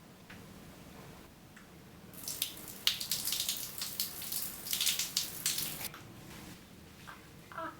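Water running from a tap and splashing, starting about two seconds in and stopping after about four seconds.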